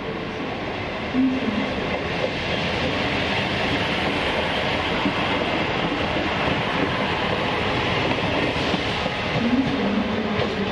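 First ScotRail Class 158 diesel multiple unit passing along the platform: a steady mix of diesel engine and steel wheels running on the rails, with a brief engine hum near the start and again near the end.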